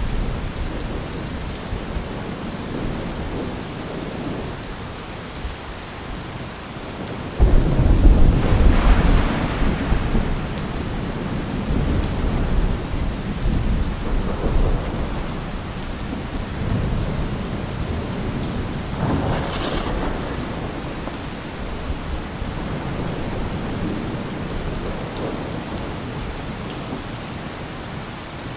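Steady heavy rain with thunder: a sudden loud, deep thunderclap about a quarter of the way in that rolls on for several seconds, a second, lighter crack about two-thirds of the way in, and rumbling that fades away toward the end.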